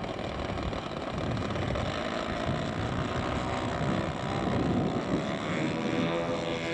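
Radio-controlled scale model airplane engine running, its pitch wavering slightly as the revs change.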